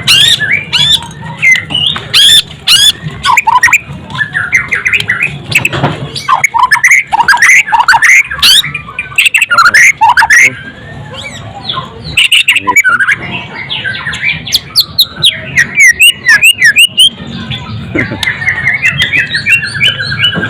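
White-rumped shama (murai batu) singing loud, varied phrases of quick rising and falling whistles and sharp chips, ending in a fast trill that falls in pitch.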